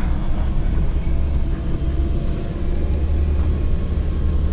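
UAZ Bukhanka van's engine running, heard from inside the cab as a steady low rumble.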